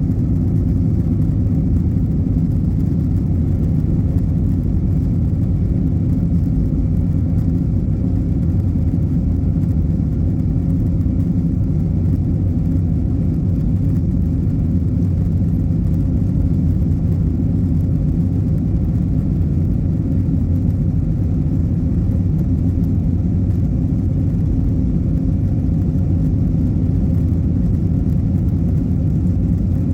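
Cabin noise inside an Airbus jet airliner: a steady low rumble of the jet engines and airflow, with faint steady hum tones and no change in level.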